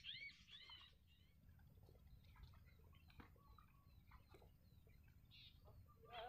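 A bird calling in a quick series of high, arched notes, about three a second, that fades out about a second in; after that near silence with a few faint ticks.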